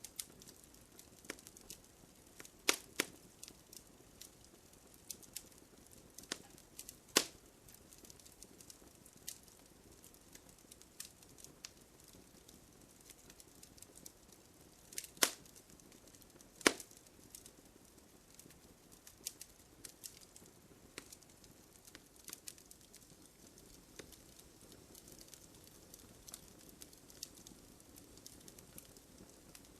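Wood fire crackling and popping: a soft steady hiss under irregular sharp pops, with a few loud snaps spread through the stretch.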